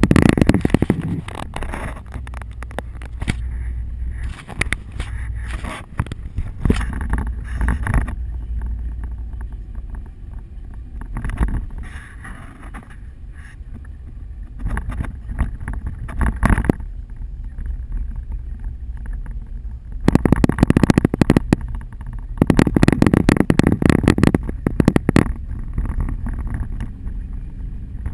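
Car driving in a hail storm, heard from inside: a steady low road and engine rumble broken about six times by bursts of dense crackling noise, each lasting from one to several seconds.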